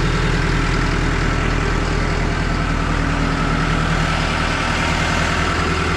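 Komatsu D51 bulldozer's diesel engine idling steadily, just started and warming up.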